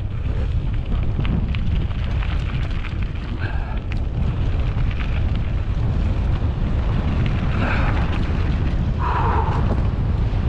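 Wind buffeting the microphone as a steady heavy rumble during a mountain-bike ride, with scattered small clicks and rattles from the bike over rough ground. Two short higher-pitched scrapes come near the end.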